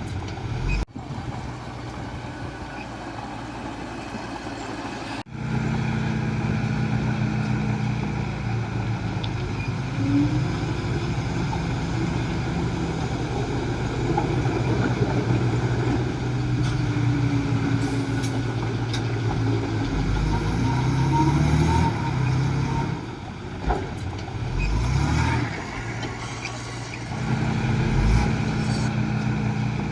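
Diesel engine of a Komatsu D20A bulldozer working, its pitch rising and falling with the load. The sound breaks off abruptly about a second in and again about five seconds in.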